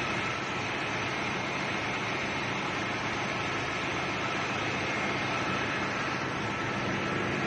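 Steady drone of a ship's engine-room machinery, an even roar with a faint steady whine and low hum and no change in level.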